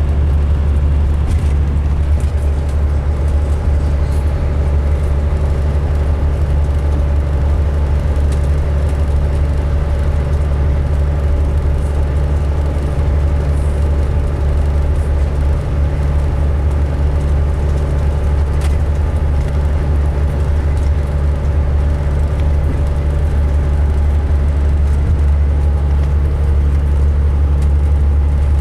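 2005 MCI D4500 coach's diesel engine running steadily, a deep constant drone with a faint steady whine above it; the uploader says this coach sounds rough running.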